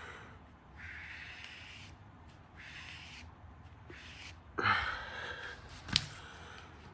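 Marker strokes scratching across paper: several long back-and-forth strokes, then a louder scrape about two-thirds of the way in and a single sharp click soon after.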